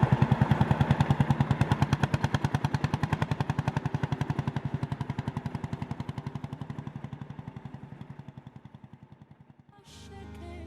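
Vintage tractor engine running at a slow, even beat, its rapid regular exhaust pulses fading away to almost nothing. Music comes in just before the end.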